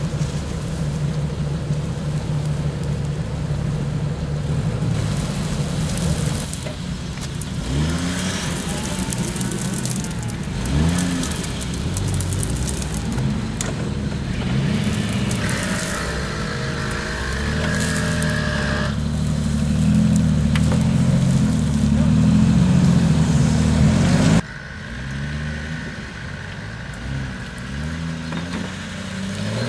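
Off-road Jeep's engine running and revving up and down repeatedly as it crawls over rough ground; the sound changes abruptly about three-quarters of the way through.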